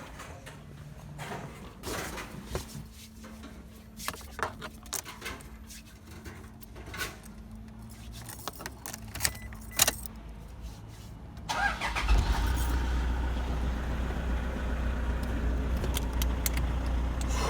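Scattered small clicks and knocks, then about twelve seconds in a car engine starts and runs steadily at idle.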